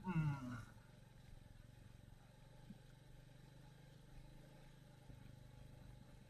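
Royal Enfield Meteor 350's single-cylinder engine running steadily and faintly at low revs, after a brief pitched sound with a bending tone at the very start.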